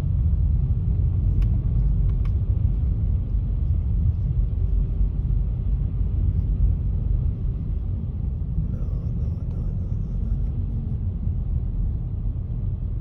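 Steady low rumble of a car driving, its road and engine noise heard from inside the cabin, with a couple of faint clicks a second or two in.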